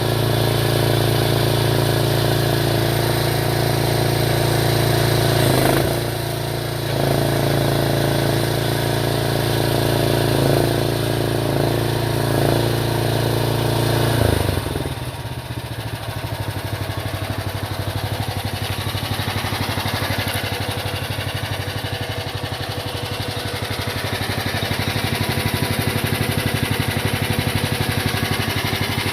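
Mini tracked loader's 13.5 hp Briggs & Stratton small engine running steadily at high throttle, dipping briefly about six seconds in. About halfway through it drops suddenly to a lower idle and runs on there.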